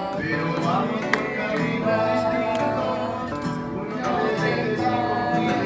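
Music: a worship song sung by a group to acoustic guitar.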